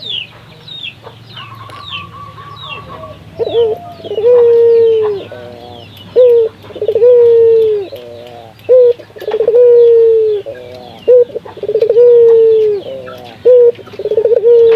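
A puter (Barbary dove) cooing loudly over and over, each call a short note and a quick stutter followed by a long, slightly falling coo, about every two and a half seconds from about four seconds in. Faint high chirps of small birds are heard at the start.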